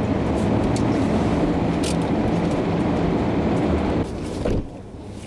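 Car engine and road noise inside the cabin, steady with a low hum and a few light clicks, dropping off suddenly about four seconds in.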